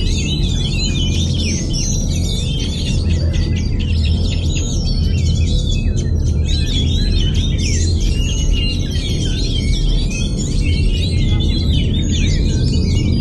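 Oriental magpie-robin (kacer) singing without pause: a fast, varied stream of sweeping whistles and chirps. Background music and a steady low hum run underneath.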